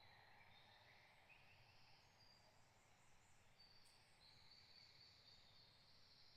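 Faint birdsong: several birds giving short, high chirps and trills over a soft steady hiss, with one brief click about four seconds in.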